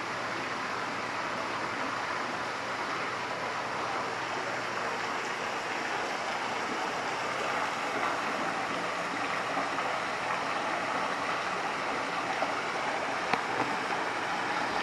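Steady rush of running water, like a small waterfall or fountain, with a few faint clicks near the end.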